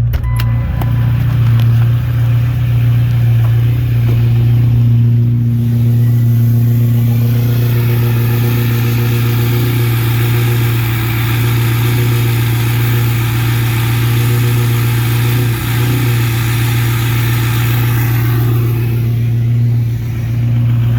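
Ford 6.0 Powerstroke V8 turbodiesel running just after an extreme cold start, not plugged in, at about −5°F; it runs rough: she ain't happy. A steady low drone goes throughout, with a higher-pitched sound on top from about six seconds in until near the end.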